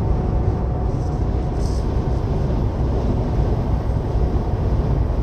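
Steady low rumble inside a tanker truck's cab at highway speed: engine and road noise with a faint steady hum.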